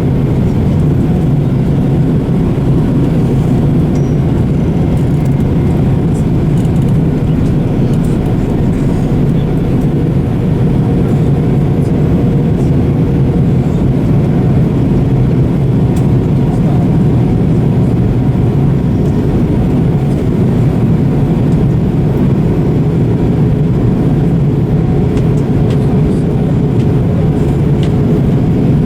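Steady low rumble inside a jet airliner's cabin, engine and airflow noise with a faint steady hum above it.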